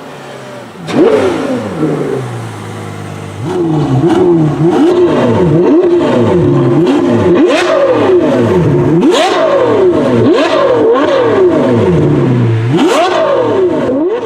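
Ferrari 812 Superfast's V12 engine, fitted with an FM Performance valve-controlled sport exhaust, revved repeatedly. One rev comes about a second in, then a run of quick blips about a second apart, each pitch rising sharply and falling back, ending with a higher rev near the end.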